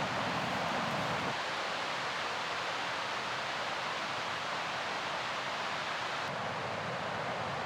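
Mountain river rushing, a steady hiss of fast water. Its tone shifts slightly a little over a second in and again near the end.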